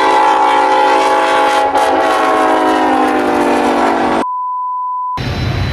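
Nathan K5LA five-chime locomotive air horn sounding one long, loud chord for about four seconds, cutting off abruptly. It is followed by a single steady electronic beep lasting about a second, then a low rumble near the end.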